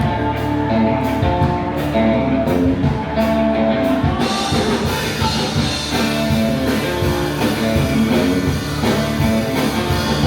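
Live band playing an up-tempo rock number: electric guitar lines over a drum kit, loud and steady.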